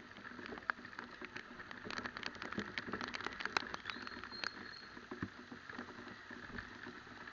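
Raindrops pattering in irregular close ticks, over the low steady running of a motorcycle riding in the rain.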